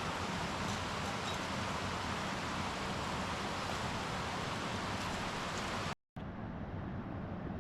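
Steady outdoor rushing noise with no distinct events. It breaks off for a moment about six seconds in, then resumes duller.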